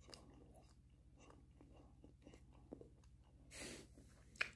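Faint chewing with small mouth clicks, and a brief hiss about three and a half seconds in.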